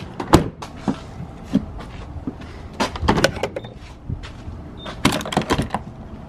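Irregular sharp clicks and knocks, bunched about three seconds in and again around five seconds in, over a steady low rumble.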